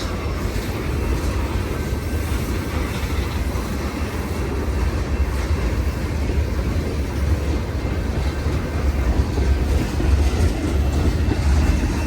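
Long freight train's cars rolling past at steady speed: a continuous rumble of steel wheels on the rails.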